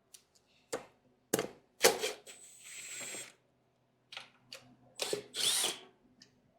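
Mechanic's tools knocking and clanking on metal while working on an engine, with a short, roughly one-second whir of a power tool partway through.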